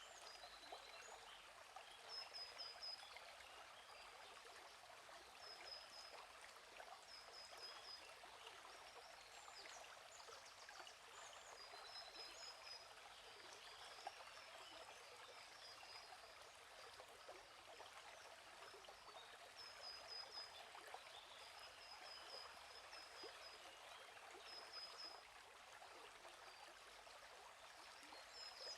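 Faint, steady rush of a flowing stream. A bird repeats a short, high chirping phrase every couple of seconds over it.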